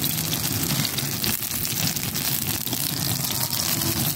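Chicken kababs shallow-frying in oil on a flat tawa griddle: a steady sizzle with fine crackles.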